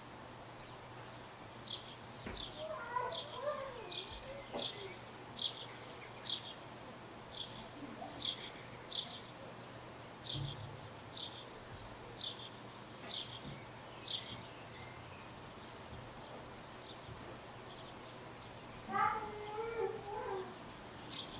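A small bird repeating a short, high, downward call about once a second, for most of the first fourteen seconds. Lower wavering calls come in twice, briefly early on and again near the end.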